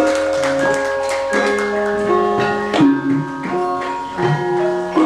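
Javanese Banyumasan gamelan ensemble playing: bronze metallophones ring overlapping sustained notes struck in a steady pattern, driven by kendang drum strokes.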